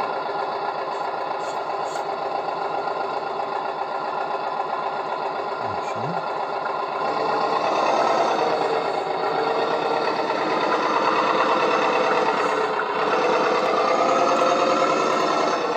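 Converted Bruder Scania Liebherr model crane truck running: a steady mechanical buzz from its small motors and gearing, growing louder and changing pitch about halfway through.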